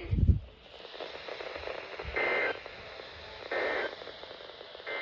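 Weather radio receiver hissing with static after a brief low thump, then three short buzzy data bursts about a second and a half apart: the SAME end-of-message code that closes the tornado warning broadcast.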